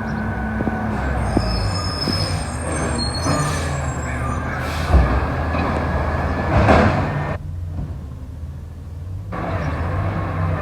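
Garbage truck engine running steadily, with high-pitched squealing about two to three seconds in and sharp knocks about five and seven seconds in.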